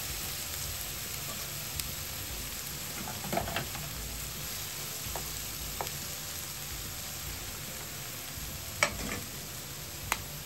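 Diced chicken and vegetables sizzling steadily in a frying pan as they are stir-fried with a wooden spatula. The spatula clacks against the pan a few times, most sharply near the end.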